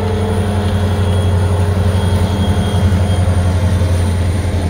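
Two EMD diesel locomotives, an SD40-2 leading a GP38, passing close by with a steady deep rumble of engines and wheels on the rail, swelling a little in the middle as they go past.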